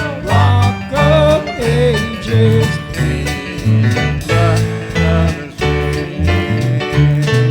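Church band playing country-style gospel music: a bass line stepping about two notes a second under guitar and a wavering lead melody.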